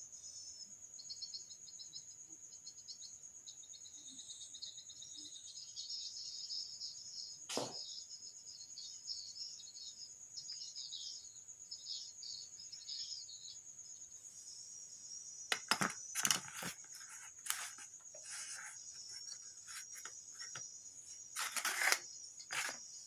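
Crickets trilling steadily in a high, unbroken band, with fluttering chirps in the first half. A single sharp click comes about seven seconds in, and from about fifteen seconds in there is a series of sharp clicks and knocks.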